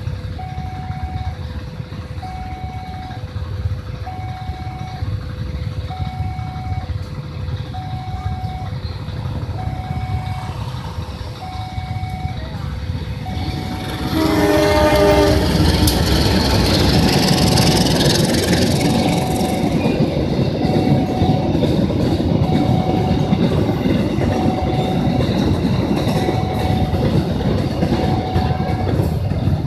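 Railway level-crossing warning alarm sounding, alternating between a lower and a higher tone. About halfway through, a train's horn sounds briefly and the train passes the crossing, its wheels on the rails running loud to the end while the alarm keeps going.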